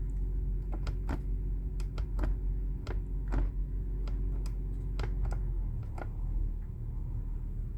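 Irregular sharp clicks, about a dozen, typical of thermostat buttons being pressed, over the steady low hum of a running Cummins Onan 7.5 kW diesel generator. The hum changes about three quarters of the way in.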